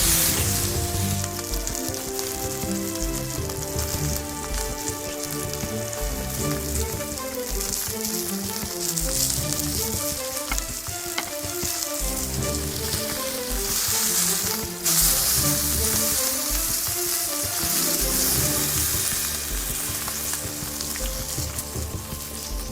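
Steak sizzling and frying in a hot frying pan, a steady hiss with a short break about two-thirds of the way through, over quiet background music.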